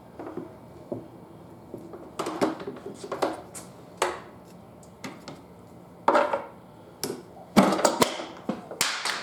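Homemade tire lever being worked around a motorcycle wheel rim, pulling the first bead of the tire off: a string of short scraping and rubbing noises. Sharper clacks come near the end, as the clamps holding the bead pop off.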